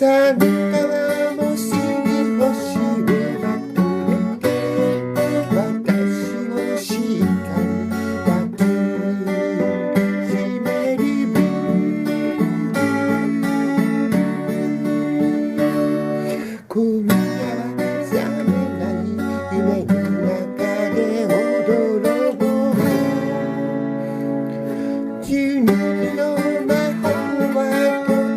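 Acoustic guitar music, strummed and picked, with a brief drop in level about seventeen seconds in.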